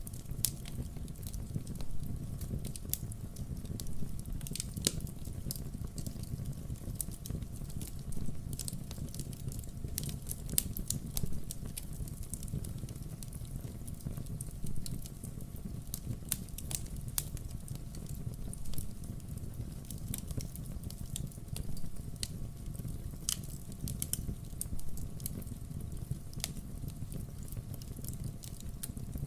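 Burning firewood crackling: frequent sharp pops and snaps scattered over a steady low rumble.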